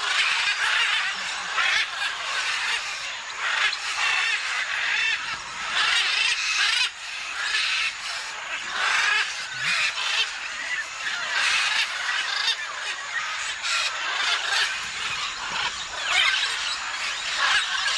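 Many parrots calling together, harsh squawks overlapping without a pause.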